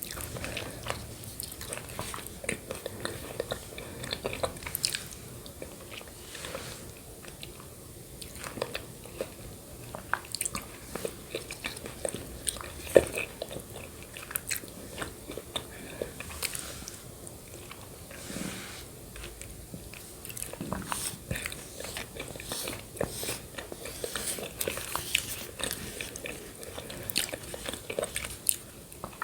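Close-up mouth sounds of someone eating yogurt with shredded coconut: irregular wet clicks, bites and chewing, with one sharper, louder click about halfway through.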